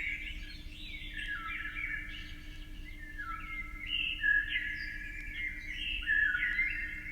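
Many birds chirping and calling at once in a dense, overlapping chorus of short high notes with no break.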